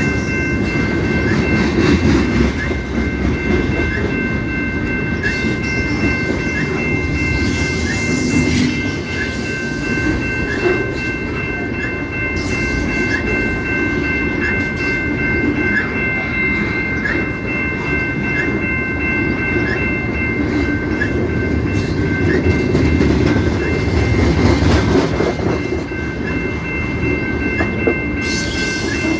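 A CP Rail train rolling past, its cars rumbling with wheel clatter over the rails. Over it a steady high ringing tone, made of three pitches, runs throughout with a faint tick about once a second.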